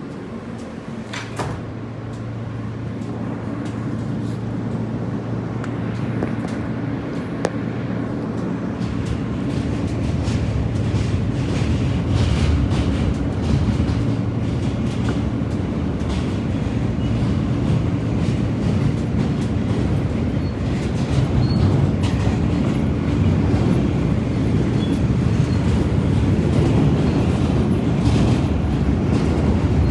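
New York City subway train pulling out of a station and picking up speed: the running noise of the cars and wheels on the rails grows steadily louder, with scattered clicks and clacks from the track.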